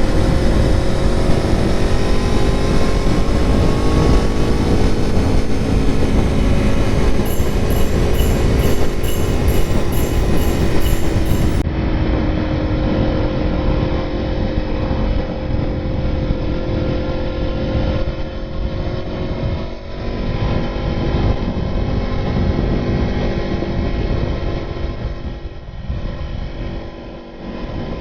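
Aprilia Tuono motorcycle engine running while riding, its pitch rising and falling with the throttle in the first part and holding steadier later, over constant wind rush.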